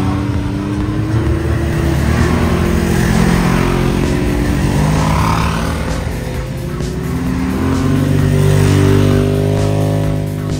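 Vehicle engines revving hard as they pass, including a side-by-side off-road buggy, climbing in pitch and loudness near the end.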